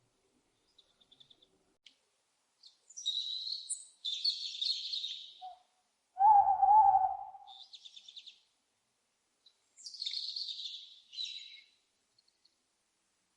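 Owl calls: harsh, hissing screeches twice, and between them, about six seconds in, a single louder, lower wavering call of about a second. Faint quick high twitters come in between.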